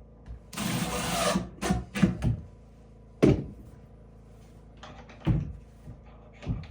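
Wood being handled in cabinet work: a rough rubbing scrape lasting about a second, then a run of sharp wooden knocks, the loudest a little after the midpoint.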